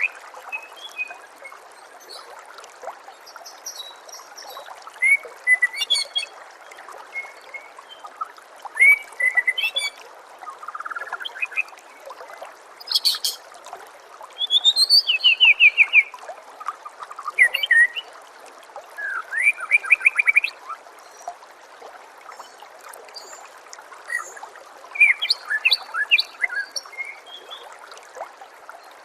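White-rumped shama (murai batu) singing in separate, varied phrases of whistles and quick runs of repeated notes, with pauses between them, over steady trickling water.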